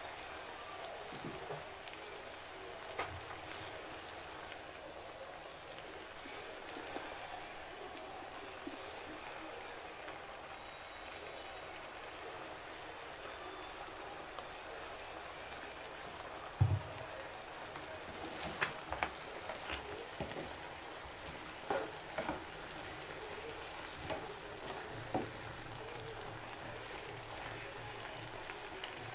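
Oxtail and tomatoes frying in a pan with a steady, rain-like sizzle. A utensil knocks and clicks against the pan several times in the second half, with a single louder thump a little past halfway.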